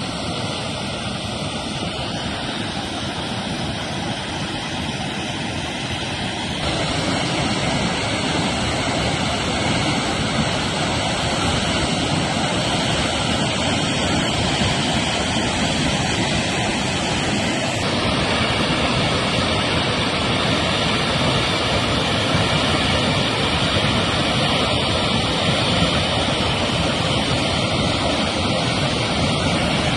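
Loud, steady rush of water from the swollen reservoir. It grows louder about six seconds in and shifts in tone at about eighteen seconds.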